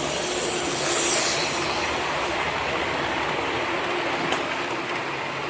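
OO gauge model train running on the layout's track: a steady running noise, with a brief high hiss about a second in and a single click a little past four seconds.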